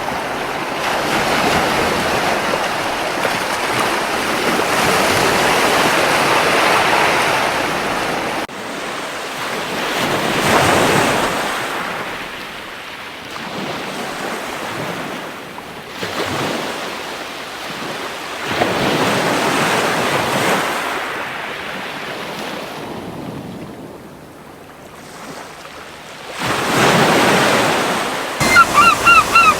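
Gentle sea waves breaking and washing up a beach, swelling and ebbing every few seconds. Near the end, gulls start calling in a quick series of short, repeated notes.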